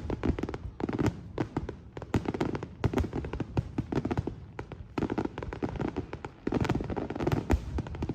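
Fireworks display: a dense, continuous run of sharp crackling pops from bursting shells, growing busier and louder about five seconds in.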